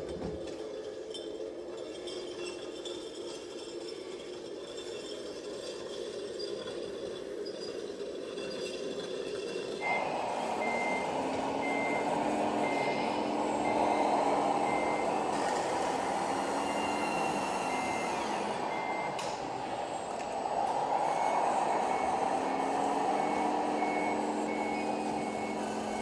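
Scale RC truck's sound module running an engine sound. About a third of the way in, its reverse-warning beeper starts, beeping in a steady rhythm over the louder whine of the model's drive motor and gears. The beeping breaks off for about two seconds and then starts again.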